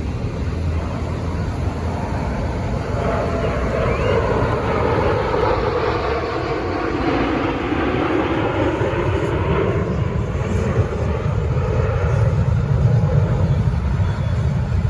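Airplane flying past at an air show, its engine sound swelling and sliding down in pitch about halfway through, then fading, over a steady low rumble.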